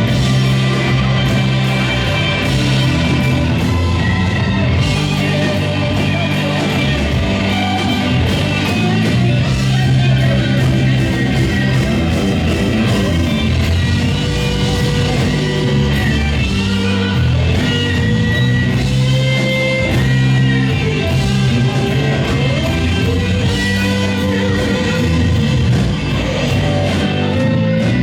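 Live blues-rock band playing: electric guitar lines over bass and drums.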